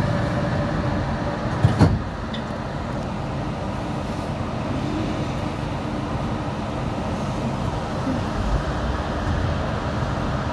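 Cabin noise of a Yurikamome rubber-tyred automated guideway train under way: a steady rumble of tyres and drive, with one sharp knock a little under two seconds in.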